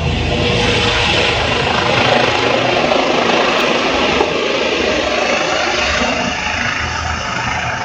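Air ambulance helicopter hovering low: loud, steady rotor and engine noise with a fast even chop from the blades.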